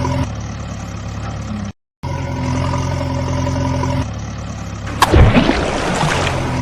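A steady, low vehicle engine hum, likely an added engine sound effect, cut in and out abruptly with a brief dead-silent gap just under two seconds in. About five seconds in comes a loud sudden crash-like hit.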